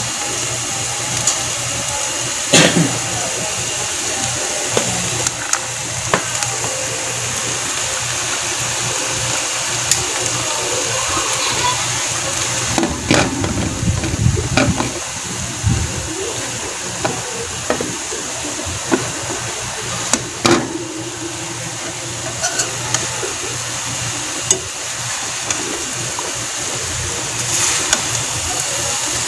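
Ground pork and carrots sizzling steadily in a frying pan, with a metal spatula clicking and scraping against the pan now and then. About halfway through, diced potatoes are tipped into the pan with a short clatter.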